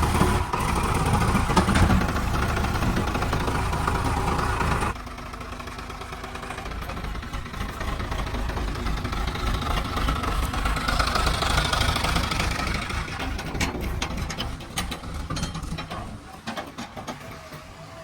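Diesel engine of heavy earthmoving machinery running steadily, dropping suddenly in level about five seconds in and fading near the end.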